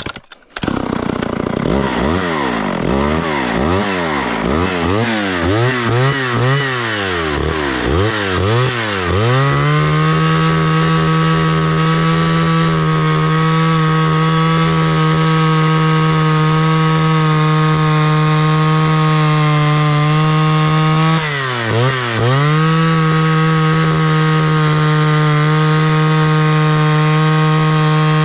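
Two-stroke chainsaw revved up and down several times, then held at full throttle with a steady high pitch while cutting wood, dipping briefly once about 22 seconds in before picking back up.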